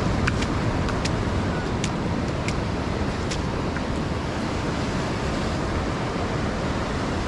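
Ocean surf washing onto the beach in a steady rush, with wind buffeting the microphone. A few light clicks come in the first three seconds or so.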